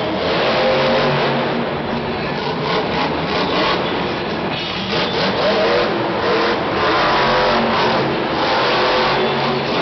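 Monster truck's supercharged V8 engine revving hard during a freestyle run, its pitch rising and falling several times.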